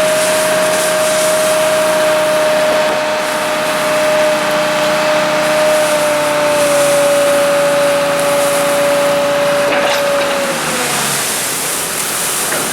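Tractor running at high revs to drive the hydraulics of a tipping trailer as it raises its body to tip a load of maize forage: a steady, loud whine over engine noise. The whine dips slightly partway through and drops away about ten seconds in, as the tipping finishes.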